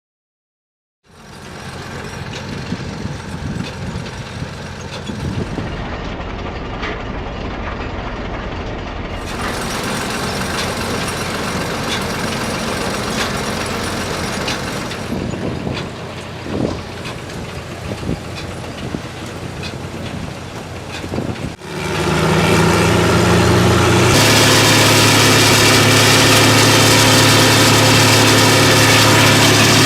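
Heavy diesel-powered equipment running steadily, heard in a run of clips that cut abruptly from one machine's sound to the next; from about two-thirds of the way in, a louder engine with a strong steady hum takes over.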